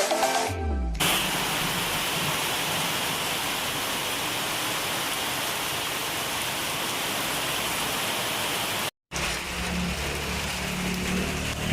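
Rain falling in a steady, even hiss. It drops out suddenly for a moment about nine seconds in, then resumes with a low hum beneath it.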